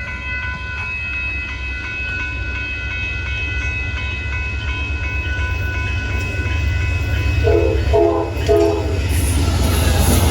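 Amtrak Texas Eagle passenger train approaching: a steady high ringing tone sounds over a low rumble that grows louder. About seven and a half seconds in, the locomotive horn plays a quick run of short blasts. After that the train's rail and wheel noise swells as it arrives.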